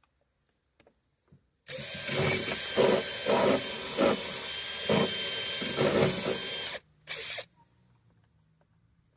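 Cordless drill-driver running for about five seconds with a steady whine and several louder surges, backing out a trim screw, then a short second burst just after it stops.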